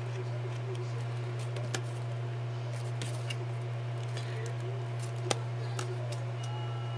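Scattered small clicks and taps of paper and embellishments being handled during scrapbooking, over a steady low hum.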